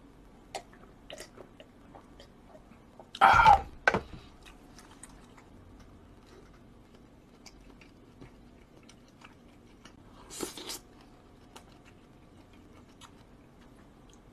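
A person chewing food close to the microphone, with soft mouth clicks throughout. A loud short mouth or throat sound comes about three seconds in, and a breathy burst near ten seconds.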